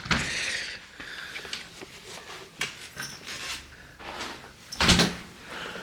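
Handling noises: a rustle at the start, scattered clicks and knocks, and a louder thump near the end, like a door being worked.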